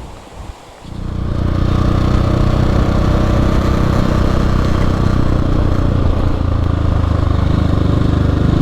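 Motorcycle engine running steadily at an even pitch. It comes in about a second in, after fainter water and wind noise.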